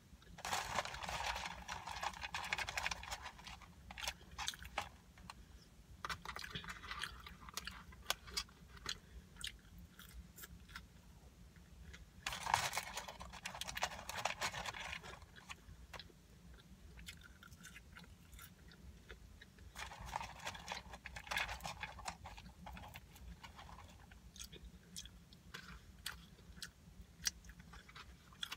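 Close-up chewing and crunching of food in the mouth, coming in about four spells of a few seconds each.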